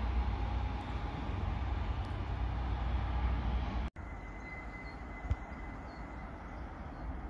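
A distant train rumbling steadily as it approaches. It cuts off sharply about four seconds in, leaving quieter, steady outdoor background noise.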